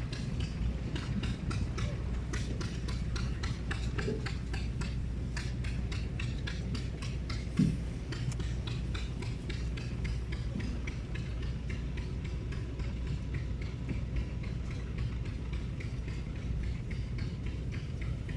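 An engine running steadily with a low hum, with a fast, even ticking of about four or five clicks a second through the first half that fades away. One short thump comes about eight seconds in.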